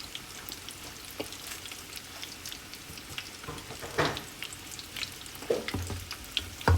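Besan-and-egg-coated chicken pieces frying in hot oil, a steady sizzle full of fine crackles, with a few louder clatters of a utensil against the pan.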